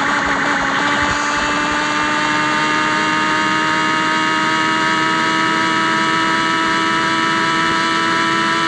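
Yamaha XJ6 motorcycle with a straight-through open exhaust, its engine running at steady revs with the pitch creeping slightly upward.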